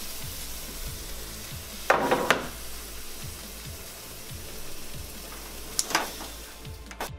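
Cuban sandwich sizzling as it toasts on a stovetop griddle pan: a steady frying hiss, with two brief louder handling noises about two seconds in and near six seconds.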